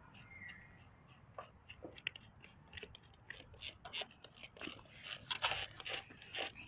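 Irregular crunching and crackling clicks from dry fire-building material being handled, growing denser and louder in the second half.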